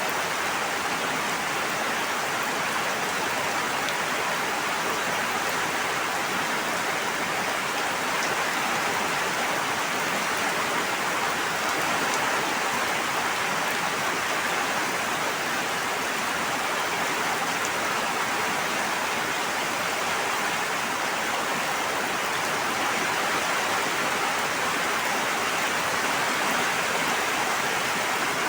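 Steady water noise: an even, unbroken hiss with no single splashes standing out.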